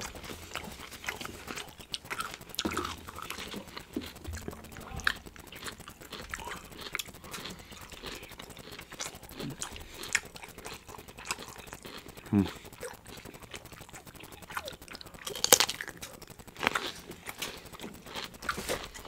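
Close-up chewing, biting and mouth sounds of people eating a seafood boil, with scattered small crunches and wet clicks. One sharper, louder click comes about fifteen seconds in.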